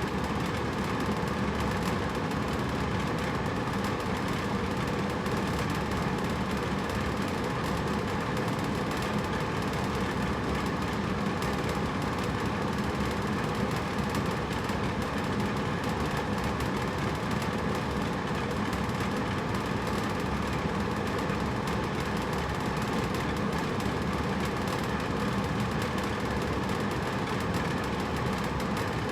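Hotel room air conditioner running steadily: an even rushing of air with a low hum.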